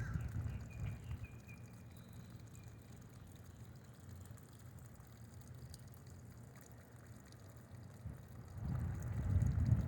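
Rain falling, with a low rumble that fades within the first second or so and builds again near the end. A bird chirps faintly in a short series of high notes during the first few seconds.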